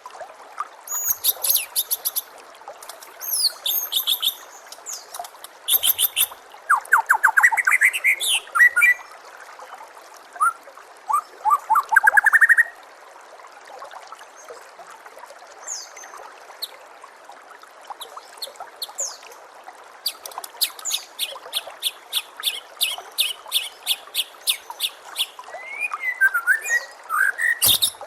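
White-rumped shama (murai batu) singing in varied bursts: rapid high trills, fast rising sweeps and quick chip series, with pauses between phrases. Steady trickling water runs underneath.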